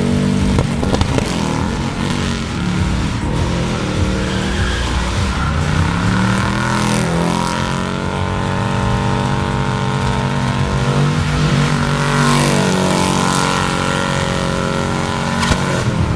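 Mercedes V8 drift car's engine running hard while drifting: the revs climb about six seconds in and are then held high, over tyre skid noise.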